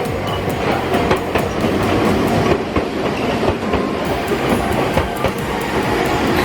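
A train running along the track, its wheels clicking over the rail joints.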